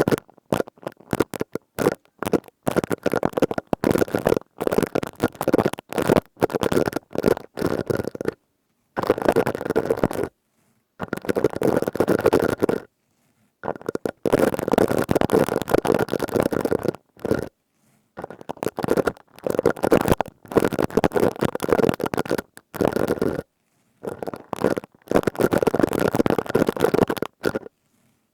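Plastic scouring pad rubbed and squeezed close to the microphone: a dense, crisp crackling in bursts of a few seconds, broken by short silent pauses.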